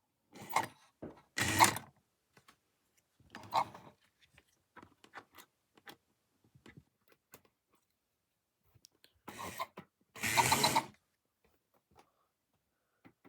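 Model steam locomotive running on track, its small motor and gears clicking and rattling, with a few short, louder clattering bursts, the loudest near the start and near the end.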